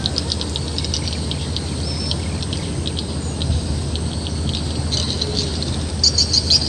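Small birds chirping in quick, high twittering runs, with one short whistle about two seconds in and a busier run near the end, over a steady low background rumble.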